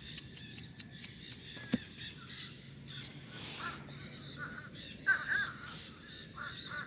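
Crows cawing in short repeated calls, fainter at first, then a quick run of several about five seconds in and a few more near the end. A single sharp click sounds just under two seconds in.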